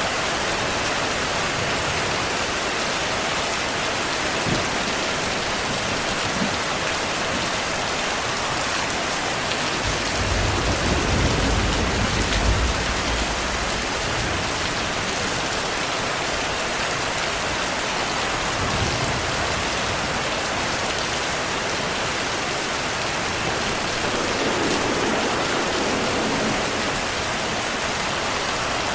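Steady rainfall, an even hiss of drops, with a low rumble of thunder rolling in about ten seconds in and fading after a few seconds.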